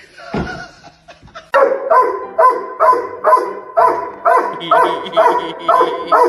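A dog barking over and over in a steady rhythm, about two and a half barks a second, starting about a second and a half in.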